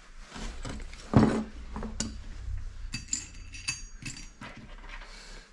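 Small metal hardware, bolts, washers and nuts, clinking as it is handled, with several sharp clicks, a few of them ringing briefly.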